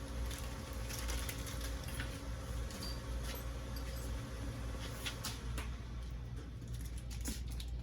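Scattered light clicks and taps of small motorcycle parts and tools being handled during carburettor installation, over a steady low hum.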